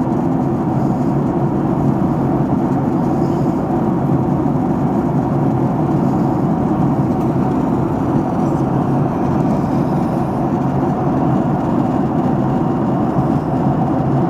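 Airliner cabin noise in flight: the engines and rushing air heard inside the cabin as a steady low rumble, unchanging in level.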